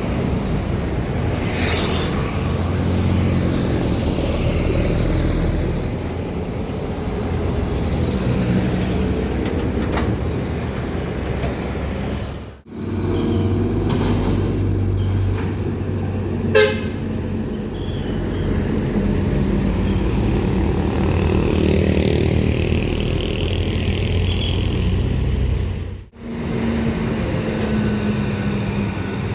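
Trucks running past on a road, their diesel engines giving a steady low sound, with the sound cutting out briefly twice. A very short, sharp horn toot sounds about halfway.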